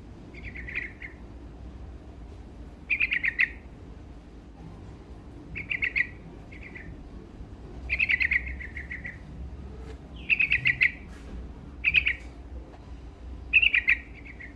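Sooty-headed bulbul (trucuk) singing short, quick phrases, about eight of them one to two seconds apart.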